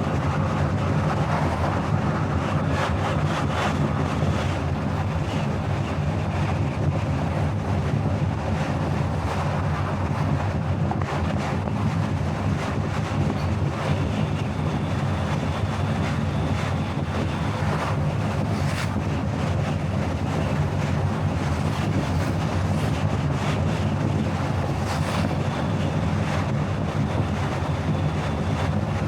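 Car driving at steady speed, with constant road and wind noise and a low, even engine hum.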